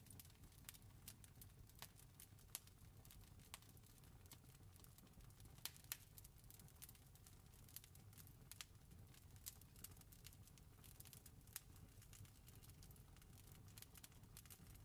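Faint crackling of a campfire: irregular sharp pops and snaps over a low, steady rumble.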